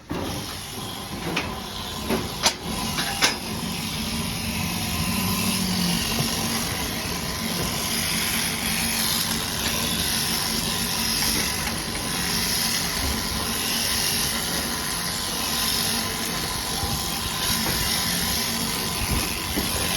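Electric sheep shears running steadily with a motor hum and a thin whine, over a broad hiss from the cutter working through wool. The sound starts abruptly, and two sharp clicks come about two and a half and three seconds in.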